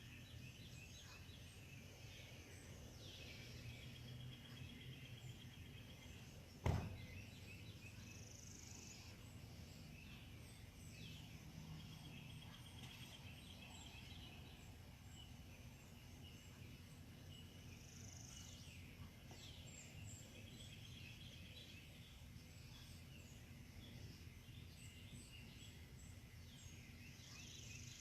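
Faint birdsong: a few birds calling again and again, every several seconds, some calls sliding downward and some trilled, over a steady low hum. A single sharp click about seven seconds in.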